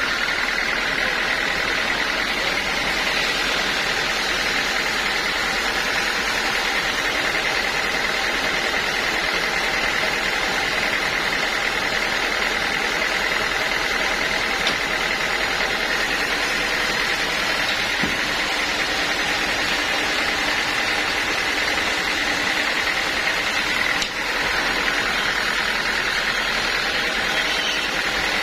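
Sawmill machinery running steadily, a constant mechanical drone with a steady high whine, dipping briefly about 24 seconds in.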